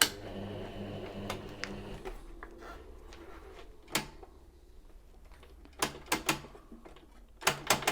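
Janome MX3123 sewing machine's motor hums briefly and winds down over the first two seconds or so. Sharp clicks and knocks follow at intervals as the machine's controls are handled, with a small cluster near the end.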